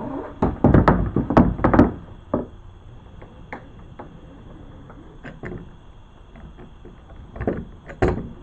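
Clattering and knocking of anchor trolley hardware against a kayak as the trolley is worked by hand: a quick run of loud knocks in the first couple of seconds, a few light ticks, then two heavier knocks near the end.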